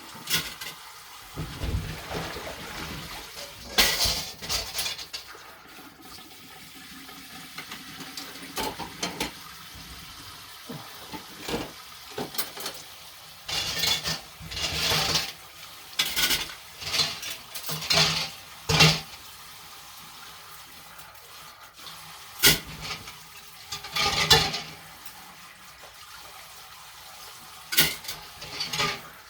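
Dishes being washed by hand at a sink: water from the tap running in short spells, with dishes, pots and cutlery clinking and clattering.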